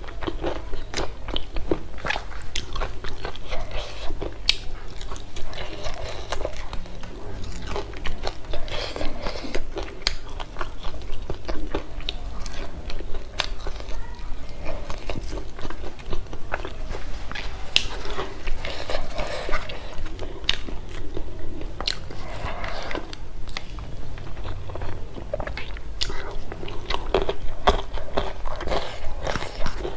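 Close-miked chewing and crunching of food, with many sharp, irregular mouth clicks and crackles.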